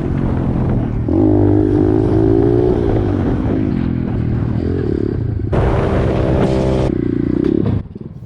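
Pit bike engine running as it is ridden, its pitch rising and falling with the throttle, dropping away shortly before the end.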